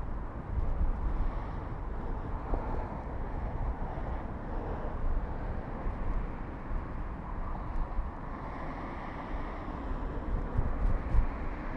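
Wind rumbling unevenly on the microphone of a moving bicycle, over a steady hiss of street and traffic noise.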